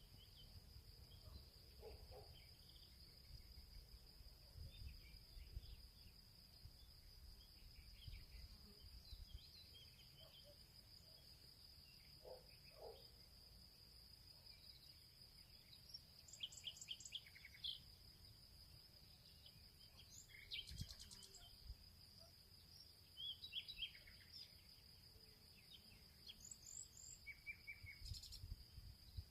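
Faint field ambience: a steady high-pitched insect drone holds one pitch throughout. Scattered bird chirps and short trilled phrases come on top, more often in the second half, over a low rumble.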